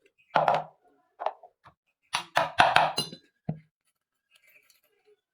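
A string of knocks and clinks from hard objects being handled: a few separate ones in the first two seconds, then a quick cluster of ringing clinks, then quiet.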